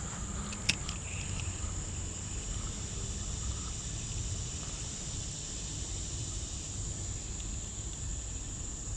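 Insects trilling steadily at a high pitch, with a low rumble underneath and a single sharp click just under a second in.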